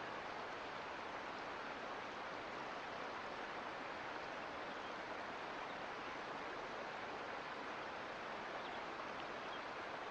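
Mountain creek water running, a steady even rush with no change in level.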